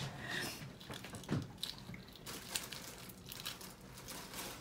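Quiet chewing and mouth sounds of someone eating a balut duck egg, with a few light clicks and a short low murmur.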